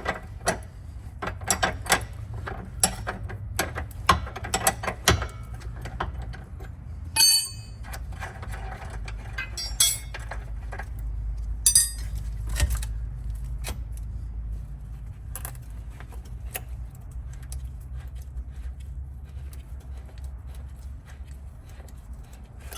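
Hand tools clicking and clinking against metal while a rear suspension link is worked loose on a car. Clicks come thick and fast at first, with a few ringing metal clanks about 7, 10 and 12 seconds in, then fewer clicks over a steady low hum.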